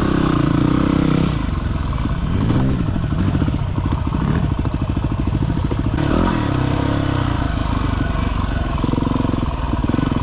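Dirt bike engine running at low to moderate revs while riding slowly, the revs rising and falling with the throttle several times.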